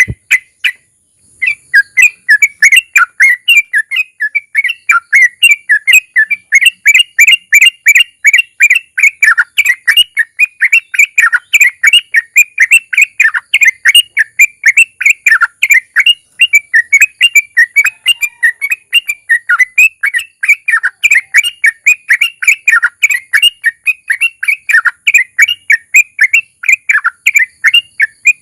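Yellow-vented bulbul (trucukan) singing a long, fast chattering run of short notes, about four or five a second, starting about a second in: the 'ropel' song that keepers play to set other bulbuls singing.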